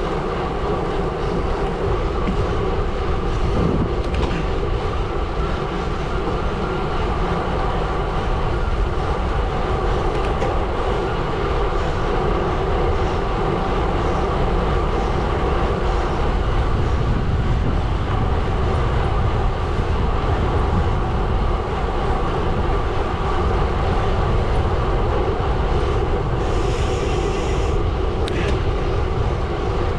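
Gravel bike tyres rolling over a gravel road, a steady loud rumble and crunch with the bike rattling. A brief high hiss near the end.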